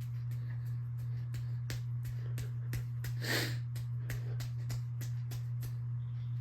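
Encon Crusader ceiling fan running with a steady motor hum and a regular ticking, about three or four ticks a second, that stops shortly before the end. A short breathy sniff about three seconds in.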